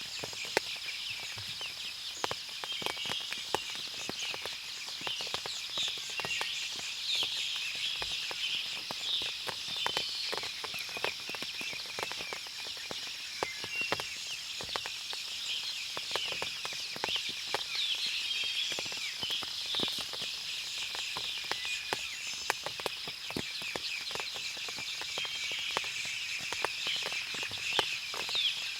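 Forest ambience after rain: a dense, continuous chorus of high bird chirps over a steady high-pitched tone, with frequent sharp drips and clicks scattered throughout.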